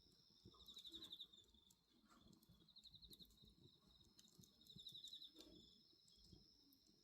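Crickets singing steadily, with a pulsed trill about every two seconds, over the faint crackle of a wood bonfire with scattered small pops.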